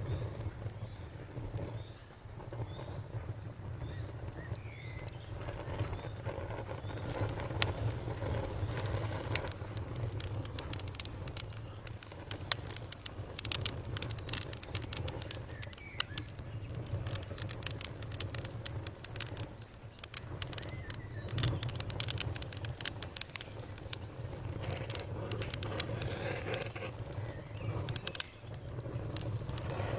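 Wood fire crackling, with frequent sharp pops and snaps over a low steady rumble. A cricket trills steadily for the first third, and a few short bird chirps come and go.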